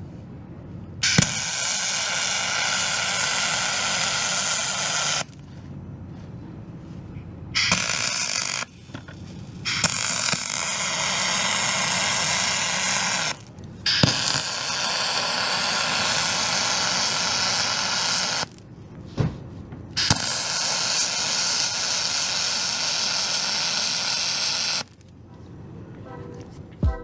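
MIG welder laying aluminum weld beads: the arc hisses and crackles in about five runs of one to five seconds each, each striking with a sharp crack and cutting off abruptly, with short pauses between.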